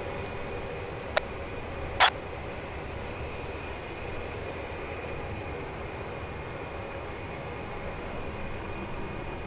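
Steady jet airliner engine noise, a low hum with a faint high whine held level, with two brief clicks about one and two seconds in.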